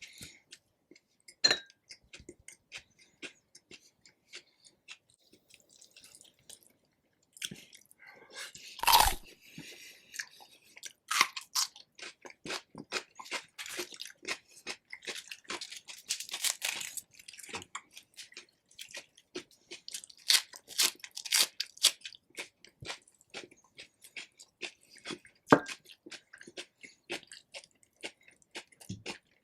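Close-miked eating of rotisserie chicken: chewing and crunching bites with many small crackles and clicks. It goes almost quiet for a few seconds early on, then a louder crunch about nine seconds in, and steady chewing after.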